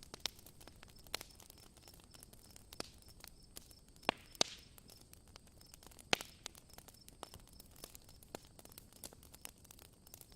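Campfire crackling: irregular sharp pops and snaps over a faint hiss, with a few louder pops about four and six seconds in.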